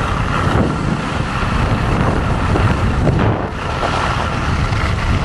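Strong wind buffeting the microphone: a loud, steady rush with no pauses.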